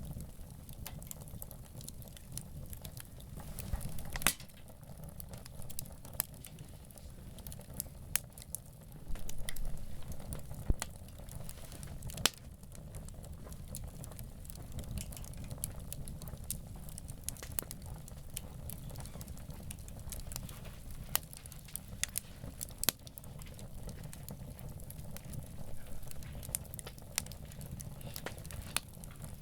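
Wood campfire crackling, with irregular sharp pops, a few louder than the rest, over a low steady rumble.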